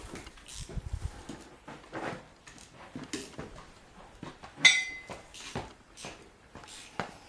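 Metal tools and parts clinking and knocking during repair work, with one sharp ringing metallic clank a little over halfway through.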